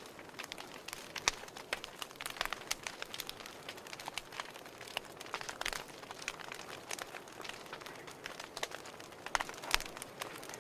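Wood fire crackling: irregular sharp pops and snaps over a low hiss, with a louder pop near the end.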